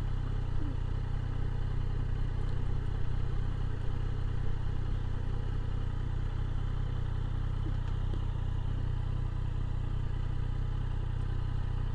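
Motorcycle engine running steadily at low revs, an even hum with no revving.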